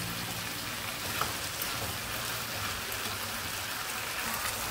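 Chicken pieces with onion and tomato sizzling in oil in a non-stick kadai on a gas stove: a steady, even crackling hiss.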